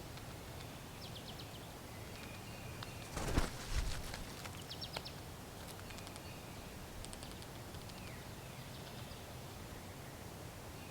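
Several short, faint, high bird chirps over steady outdoor background noise, with a louder brief rustle about three seconds in.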